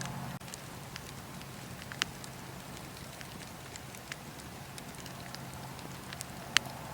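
Wood fire crackling in a fireplace: a steady soft hiss broken by scattered sharp pops and snaps, with one louder pop about two seconds in and the loudest near the end.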